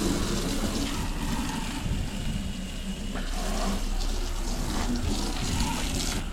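Steady rush of water spraying, as when a ute is hosed down during a wash.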